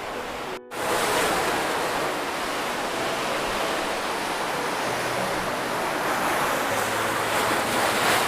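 Steady rushing noise of sea surf and wind, with wind on the microphone. The sound cuts out for a split second about half a second in, then resumes a little louder.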